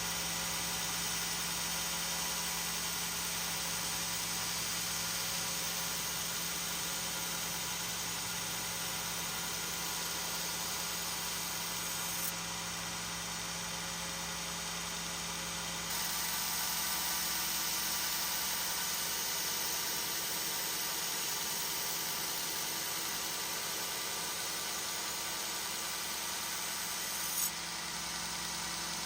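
Belt grinder running steadily while an Apex Ultra steel chef-knife blade is rough-ground against the belt. The sound shifts abruptly in level and tone twice near the middle.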